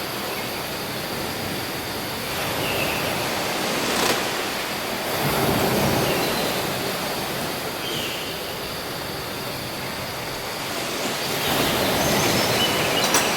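A steady rushing noise, like surf or wind, with a couple of sharp clicks. It swells a little around the middle and starts fading away near the end.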